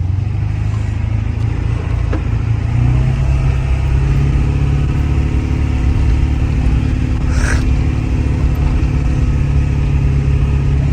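Ford F-350 pickup's diesel engine under heavy load, towing a loaded trailer up a steep hill: a steady low drone that climbs a little in pitch over the first few seconds, with a short hiss about seven and a half seconds in.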